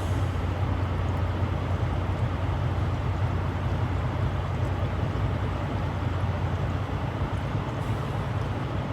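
Semi-truck diesel engine idling steadily with a low, even hum.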